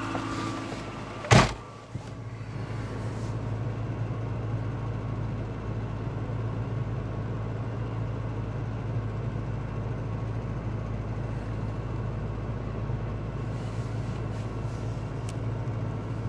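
A car door shuts with a single thud about a second and a half in. After that, the VW Jetta A2's 1.8-litre four-cylinder engine idles steadily, heard from inside the cabin, shortly after a cold start at −3 °C.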